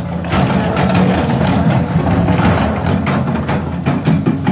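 Excavator's diesel engine running steadily, with repeated knocks and clatter over it.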